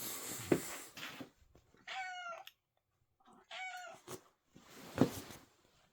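Domestic cat meowing twice, two short calls about a second and a half apart, begging for food. A sharp click follows near the end.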